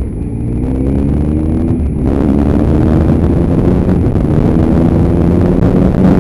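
Motorcycle engine accelerating, its pitch climbing, dipping about two seconds in as it shifts up a gear, then climbing again and levelling off. Wind noise on the microphone comes in with the gear change and stays.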